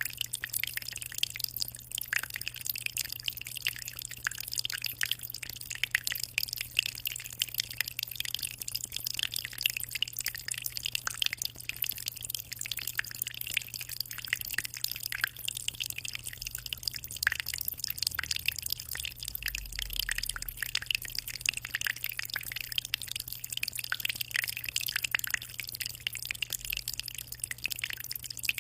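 Aquarium water trickling and splashing at the surface: a fast, continuous patter of small drips and splashes. Under it runs a steady low hum.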